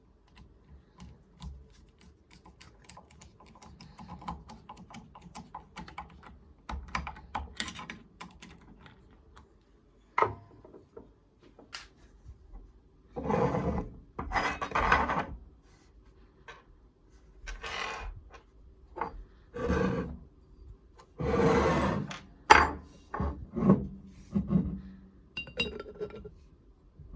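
Hand abrasive work on a restoration piece: faint scratching at first, then a run of separate rubbing strokes, each about a second long, in the second half.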